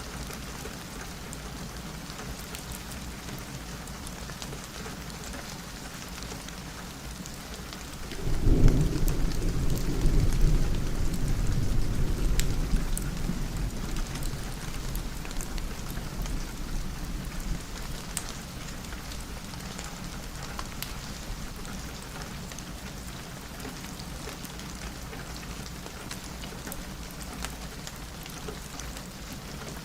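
Steady rain falling on a window, with thunder breaking in suddenly about eight seconds in and rumbling low for several seconds before fading back into the rain.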